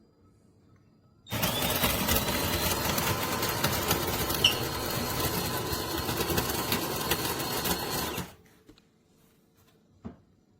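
Built-in coffee grinder of a De'Longhi Rivelia bean-to-cup espresso machine grinding beans at the start of a latte brew cycle: a loud, steady grinding starts about a second in and cuts off after about seven seconds. A single short click follows near the end.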